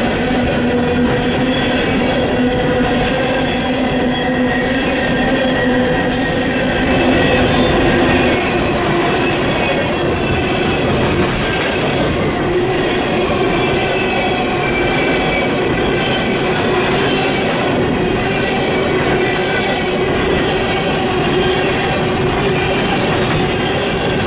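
Freight train of open-top coal gondola cars rolling past, a steady loud rumble of steel wheels on rail with a few held whining tones over it; the lowest tone fades out about a third of the way in and a higher one carries on.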